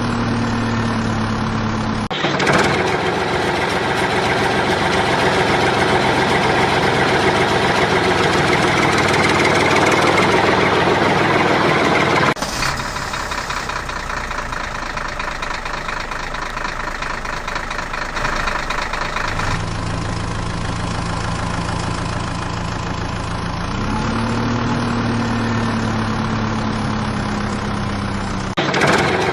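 Heavy vehicle engine sound effects for a cartoon JCB backhoe loader and trucks: engines idling and running. The pitch rises and settles near the start and again a few seconds before the end. The sound cuts abruptly between different engine recordings several times.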